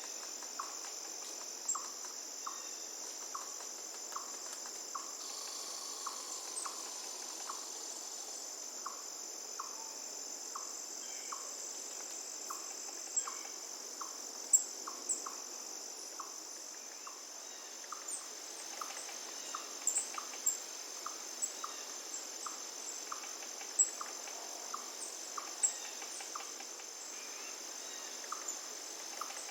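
Insects trilling in a steady, high-pitched drone, with a short lower note repeating about once or twice a second and brief sharp chirps scattered through, more of them in the second half.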